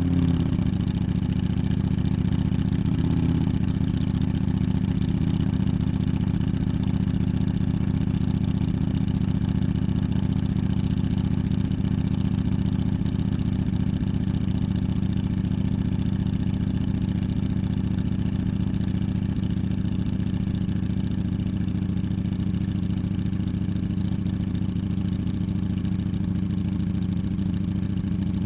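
Ducati Streetfighter V4's V4 engine idling steadily through a QD aftermarket exhaust, warm rather than from a cold start. The idle note shifts slightly about three seconds in, then holds even.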